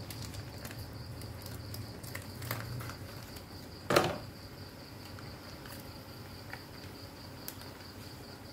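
Thick rendang chilli paste frying and bubbling in a wok, with scattered small crackles and spits and one loud pop about four seconds in. A steady high-pitched tone sounds behind it.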